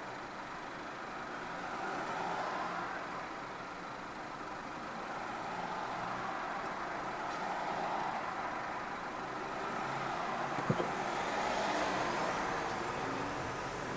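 A car driving along a road: steady tyre and engine noise that swells and eases every few seconds, with one brief click about ten and a half seconds in.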